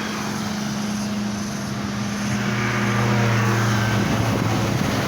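Heavy truck's diesel engine labouring under load up a steep climb, with a steady low drone that grows louder about halfway through as the truck draws nearer.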